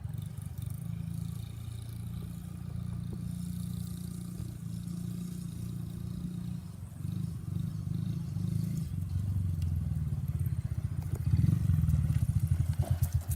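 Small 50cc mini dirt bike engine running as the bike is ridden around, growing louder about eleven seconds in as it comes close, then dropping away at the end.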